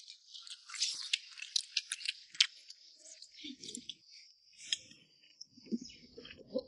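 Someone eating and chewing with the mouth close to the microphone: a quick run of sharp, wet clicks and smacks, busiest in the first couple of seconds, then sparser.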